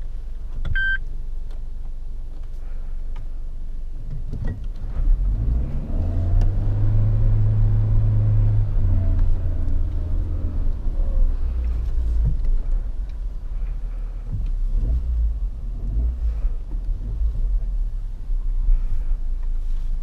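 Suzuki Jimny's 1.5-litre four-cylinder engine pulling under load. The engine note swells about four seconds in, holds strongly for several seconds, then eases off, with occasional knocks and rattles throughout. A short beep sounds near the start.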